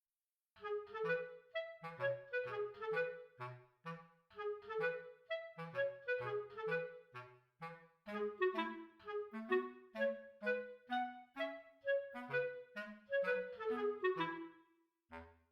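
Background music: a light, bouncy tune played on a clarinet-like woodwind over a plucked bass line, in short separate notes with a steady beat.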